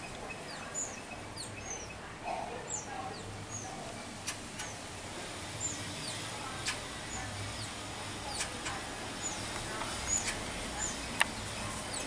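Birds chirping: short, high notes that slide downward, scattered about once a second, over a steady background hiss. Several sharp clicks break in, the loudest near the end.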